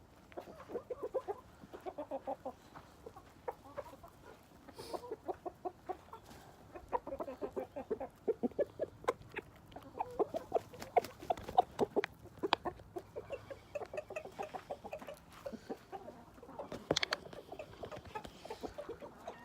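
A flock of chickens clucking: many short calls in quick runs, busiest and loudest in the middle, with scattered sharp clicks among them.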